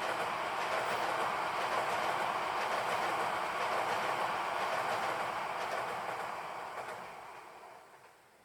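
Yamagata Shinkansen train running on the rails, a steady noise that fades away over the last couple of seconds as the train moves off.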